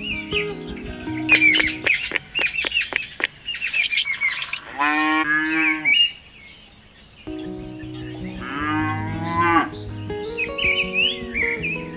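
Cow mooing twice, each call a long low moo of about a second and a half, the second starting a little more than two seconds after the first ends. Background music with bird chirps, a burst of sharp chirps before the first moo.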